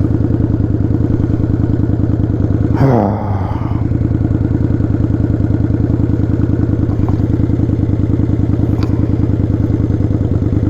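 Motorcycle engine idling steadily with a rapid, even pulse. About three seconds in, a short falling sound like a groan or sigh is briefly louder than the engine.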